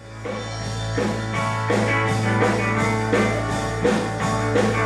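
Live rock band playing an instrumental intro on electric guitar and drum kit, with a steady beat. A constant low hum runs underneath. The sound cuts in abruptly at the start.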